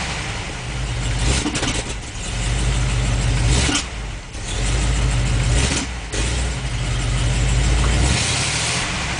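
Ford 292 Y-block V8 with a four-barrel carburettor running cold, its engine speed rising and falling about three times. It is cold-blooded and stumbles off idle, which the owner puts down to the accelerator pump being too cold.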